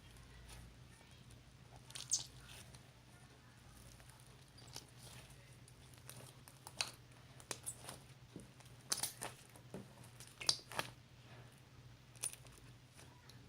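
Scattered light clicks and taps at irregular intervals, the loudest about two seconds in and again around nine and ten and a half seconds, over a steady low hum.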